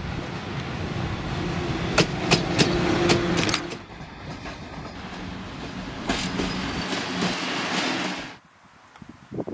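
A freight train of open coal wagons behind a Škoda class 183 electric locomotive rolls past, its wheels clacking sharply over rail joints about five times in quick succession. After that comes a quieter rolling rumble that swells again and then cuts off abruptly near the end.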